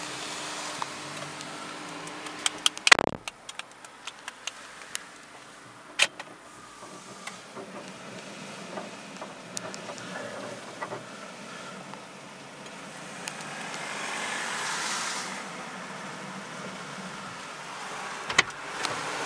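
Automatic car wash running, heard from inside a waiting car: a steady background wash with a hiss of spray that swells and fades about two-thirds of the way through. There is a sharp knock about three seconds in and scattered clicks.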